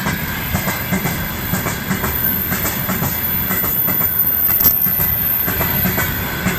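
Train wagons rolling past close by, their wheels knocking over the rail joints in quick, uneven clacks over a steady rumble, with a faint thin ringing from the wheels on the rails.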